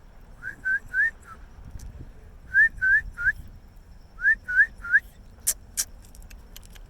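A person whistling to the seagull in three quick bursts of three short rising notes. Two sharp clicks follow near the end.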